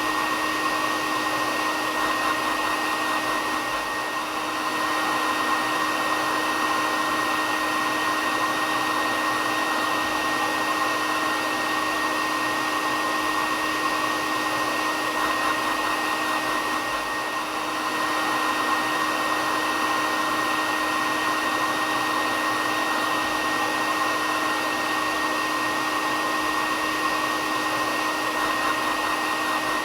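Hair dryer running steadily: a continuous rushing airflow with a steady motor whine.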